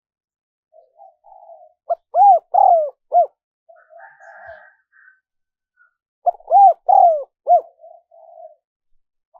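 Spotted dove cooing: two phrases about four seconds apart. Each phrase has a few soft, rough lead-in notes, then three or four loud, arched coos ending on a short note.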